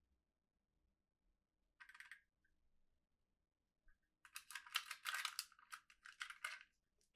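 Toy packaging being handled and opened: a brief rustle, then a few seconds of dense crinkling and rustling from about four seconds in.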